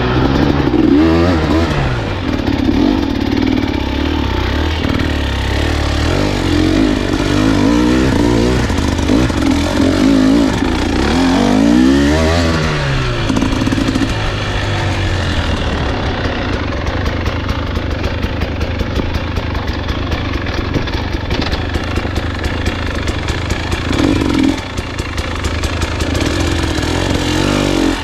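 Husqvarna enduro dirt bike engine running under load on a trail, its pitch rising and falling over and over as the throttle is opened and closed, with a rattle of clatter over the top.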